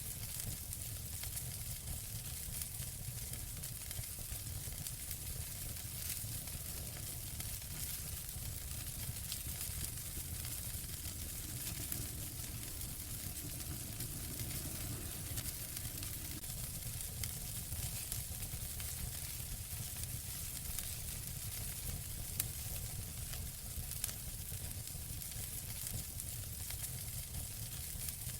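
Fire burning in a fireplace: a steady hiss with frequent small crackles and pops.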